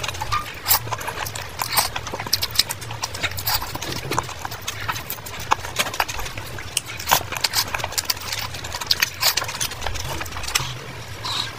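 Close-miked chewing and lip-smacking of a mouthful of Maggi noodles, with many quick, irregular wet mouth clicks.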